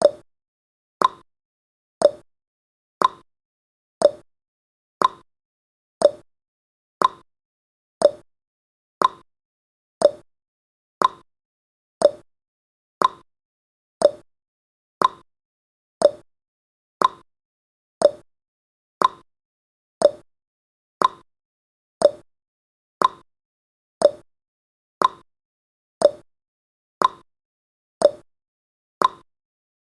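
Countdown timer's ticking sound effect: a short, sharp tick exactly once a second, marking each second counted down.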